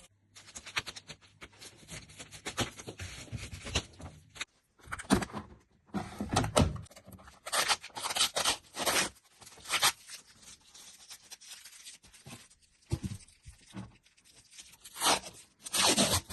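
Irregular scraping, rustling and knocking as a new washing machine and its packaging are handled, with short quiet gaps between.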